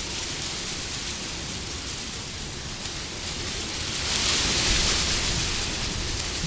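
Steady wind blowing, a gust swelling and growing louder about four seconds in, then easing off.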